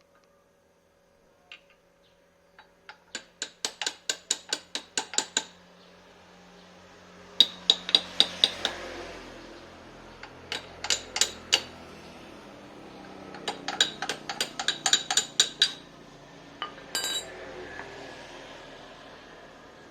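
Quick runs of light metallic taps, about five a second, each tap ringing briefly. There are four runs of one to two seconds each, with pauses between them and a last couple of hits near the end.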